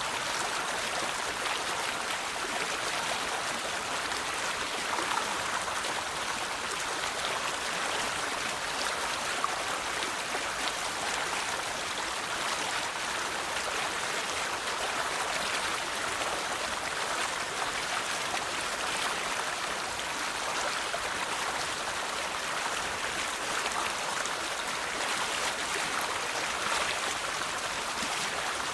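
River water flowing steadily over stones, an even rushing and babbling that does not change.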